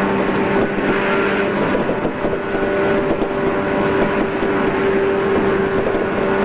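JR East 113 series electric train running at steady speed: a continuous rumble of wheels on rail with steady humming tones from the motors and gears. A low tone fades out about a second in. The sound is dulled by its cassette-tape recording.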